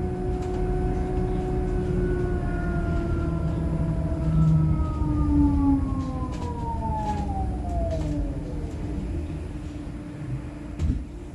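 Electric bus traction motor whine, a set of tones falling steadily in pitch over about nine seconds as the bus slows, over low road rumble. A single knock comes near the end.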